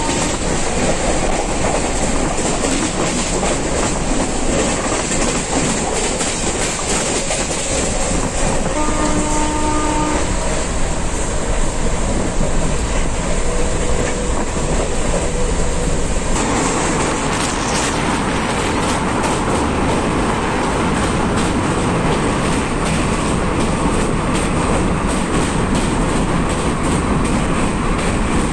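Express passenger train running at about 125–130 km/h, heard from inside the coach: a steady rumble and rush of wheels on rail, with the rhythmic clickety-clack of the wheels. About sixteen seconds in, the sound shifts and grows brighter and louder.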